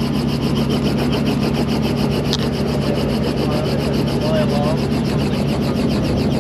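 Helicopter running steadily, a fast, even chopping rasp from the rotor over a constant low engine hum.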